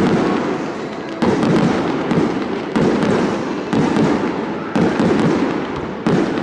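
Fireworks bursting about once a second, five in all, each sudden bang trailing off into a rumble before the next one.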